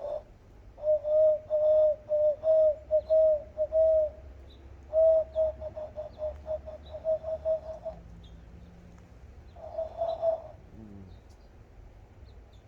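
A person practising a bird call by blowing, giving a run of short, low, hooting whistled notes on one pitch. They come about four a second at first, then in a quicker run, then one longer note near the end. Faint high bird chirps sound in the background.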